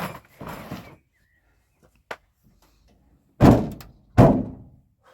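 Heavy thuds: two near the start, a short click about two seconds in, and two louder thuds a second apart at about three and a half seconds, each dying away quickly.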